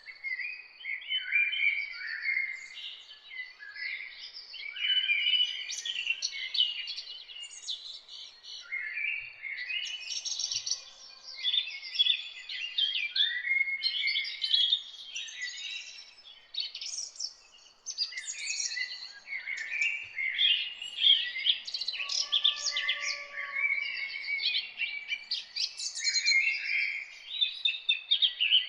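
Several songbirds singing at once, a dense, continuous chorus of quick high chirps and trills. A lower, slurred call sounds faintly at the start and again about three-quarters of the way through.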